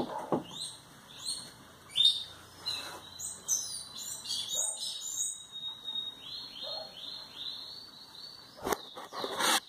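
A songbird singing: a varied string of high chirps and whistles, a held note, then a quick run of repeated falling notes. A sharp knock and some handling noise come near the end.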